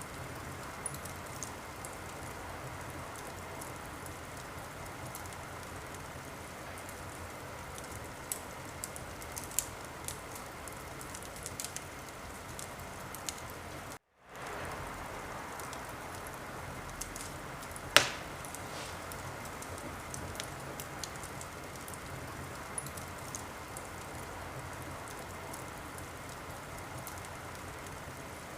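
Wood fire burning in a fireplace: a steady hiss with scattered small crackles and one loud pop a little after the middle. The sound cuts out for a moment just before the middle and fades back in.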